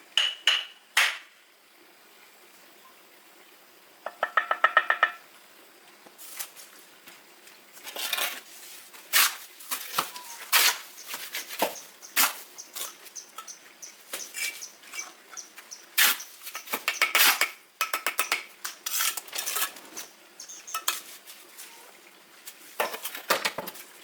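Pots and metal utensils clattering and clinking in irregular knocks and scrapes, with a short rapid rattle about four seconds in.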